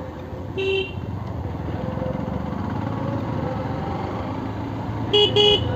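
Motorcycle riding along with steady engine and wind noise; a vehicle horn beeps once about half a second in, then twice in quick succession near the end.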